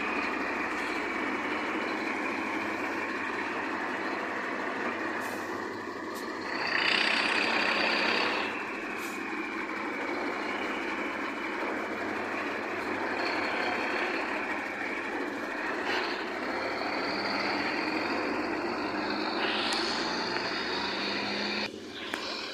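Heavy truck running steadily, with a louder hiss lasting about two seconds near a third of the way in.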